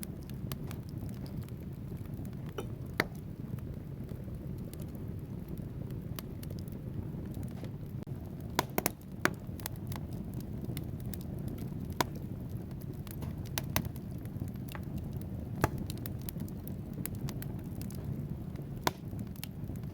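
Wood fire burning in a fireplace: a steady low rush of flames with irregular sharp crackles and pops from the logs, a few louder snaps scattered through.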